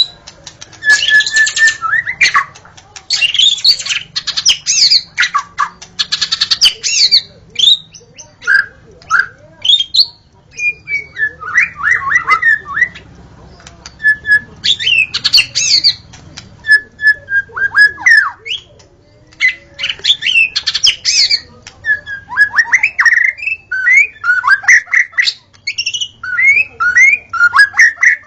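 White-rumped shama (murai batu) singing: a loud, varied song of quick whistles, slurred notes and harsh chattering, delivered in bursts of a second or two with short pauses between phrases.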